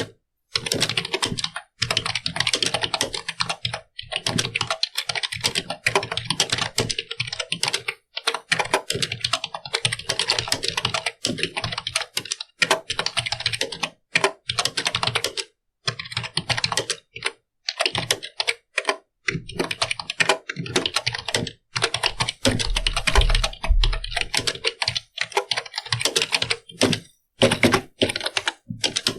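Continuous fast typing on a computer keyboard: a dense run of key clicks broken by short pauses every few seconds. Heavier low thumps come through a little past two-thirds of the way in and are the loudest part.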